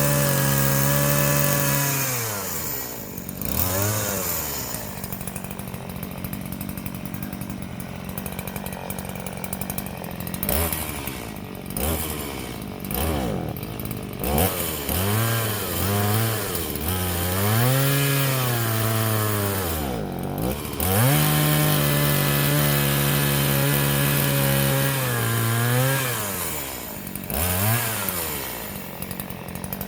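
Stihl two-stroke chainsaw engine revving. It is held at high revs, drops to idle about two seconds in, then gives a run of short throttle blips and two longer high revs before falling back to idle near the end.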